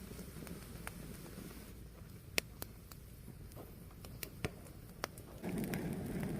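Fire burning with a low steady rush and a handful of sharp crackles and pops; the rush grows louder about five seconds in.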